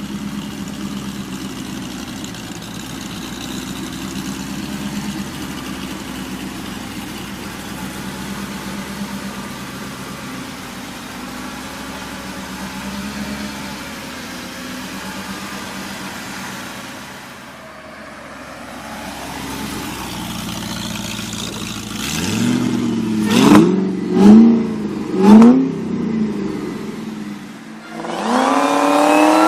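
Car engine running steadily at idle, then blipped three times in quick succession, each rev rising and falling sharply, and near the end revved up hard in one long climb.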